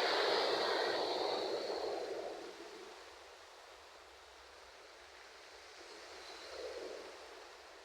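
Ocean waves on a shore. One wave breaks and washes in at the start, then fades away over about three seconds. A smaller wave washes in near the end.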